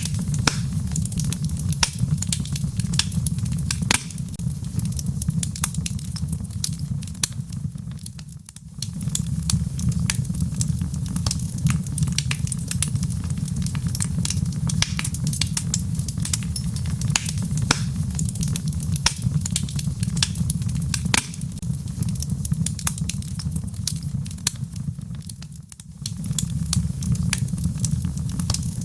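Log fire burning in a fireplace: a steady low rumble of flames with frequent sharp crackles and pops from the burning wood. The rumble briefly drops away twice.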